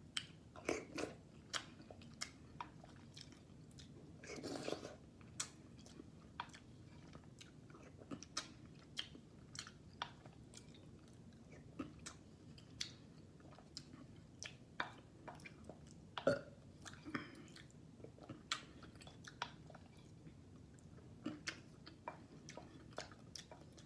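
A person chewing soft food, sautéed sardines with sweet potato leaves: faint, irregular wet chewing clicks and smacks throughout, with a brief noisier stretch about four and a half seconds in.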